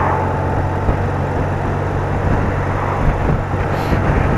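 BMW R80RT motorcycle's air-cooled flat-twin boxer engine running steadily on the move, with a steady rush of wind noise.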